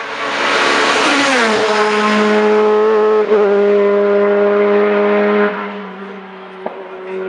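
Hillclimb race car passing at full throttle: its engine note swells, drops in pitch as the car goes by, then holds a steady high note as it pulls away, with a brief break a little over three seconds in, before fading about five and a half seconds in.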